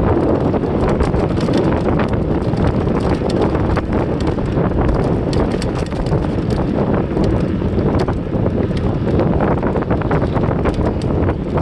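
Wind buffeting the microphone of a camera carried on a moving bicycle, a steady rumbling rush. Frequent small irregular clicks and rattles run through it.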